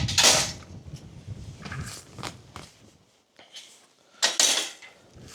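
A field gate being opened: its latch and frame knock and rattle in a run of sudden clatters, loudest at the start and again about four seconds in.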